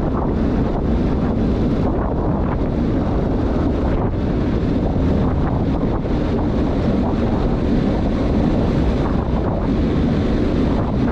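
Wind buffeting the microphone: a steady low rumble that holds without letup.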